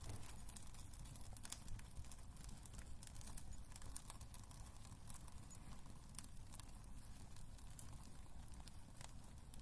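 Wood fire crackling in a fireplace: irregular small snaps and pops over a low, steady rumble of the flames.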